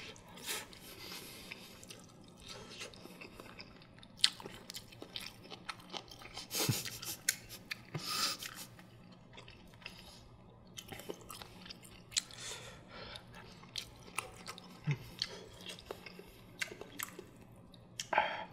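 Close-miked chewing of soft steamed egg and rice, with scattered short clicks of chopsticks against the rice bowl and the earthenware ttukbaegi pot.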